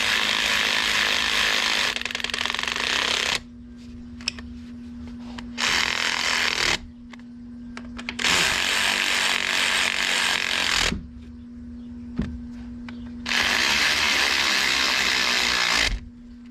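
Hiss of a pressurized spray in four long blasts of one to three seconds each, each cut off sharply, over a steady low hum.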